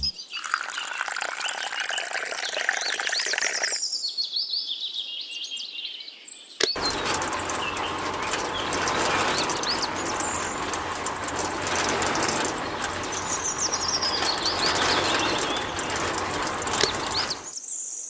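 Small birds chirping and singing in short rising and falling calls. From about seven seconds in, a steady rushing noise with a faint low hum joins them, starting after a click and stopping suddenly near the end.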